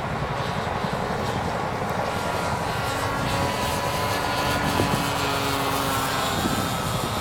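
OS 55AX two-stroke glow engine of a radio-controlled Pilatus PC-9 model plane running steadily in flight, its whine falling slightly in pitch midway. Wind rumbles on the microphone.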